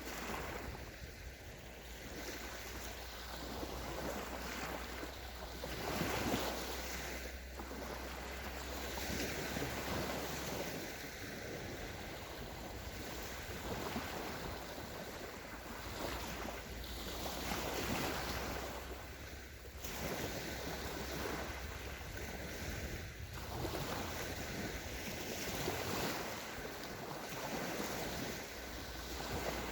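Small sea waves breaking and washing up on a sandy shore, swelling and falling back every few seconds, with a low rumble of wind on the microphone.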